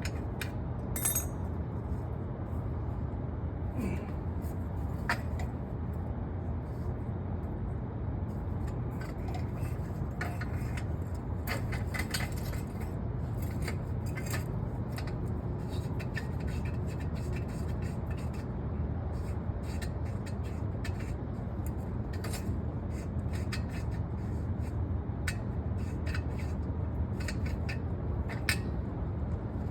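Car engine idling steadily, a low even drone, with scattered light clicks and scrapes over it.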